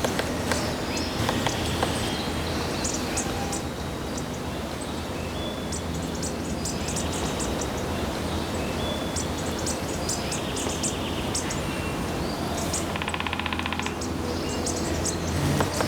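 Hairy woodpecker foraging for grubs, pecking and tapping at bark in scattered clusters of short, sharp taps over a steady outdoor background hum. A short rapid buzz comes near the end.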